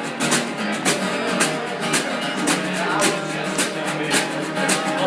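Live acoustic guitar music with a steady beat of about two strokes a second.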